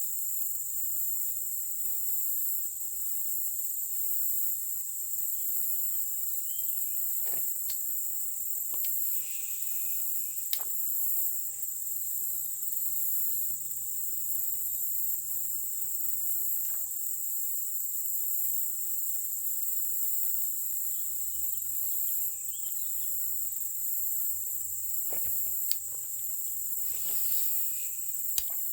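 A steady, high-pitched chorus of insects. A few short clicks and knocks break in now and then, more of them near the end.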